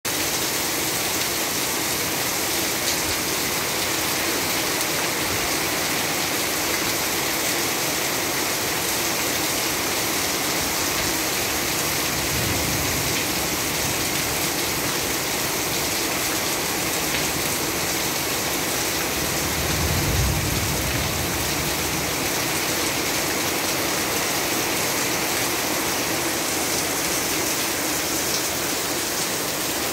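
Steady rain falling at a window, a constant even hiss, with a brief low rumble about twenty seconds in.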